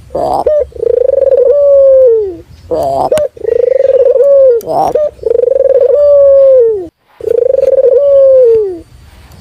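A local puter dove cooing loudly and repeatedly: four phrases, each a short note followed by a long, level coo that drops in pitch at its end.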